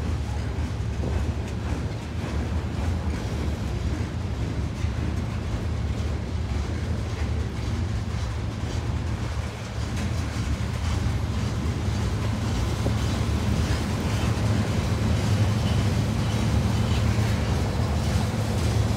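Freight train of covered hopper cars rolling slowly past, a steady low rumble with faint clicks of steel wheels on the rails.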